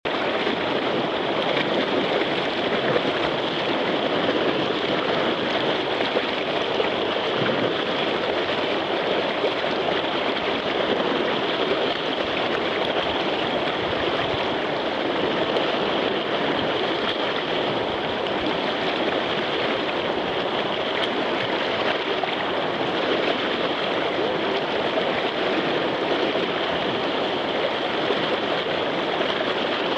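Whitewater river rushing steadily over a small rapid wave, an even, unbroken roar of moving water.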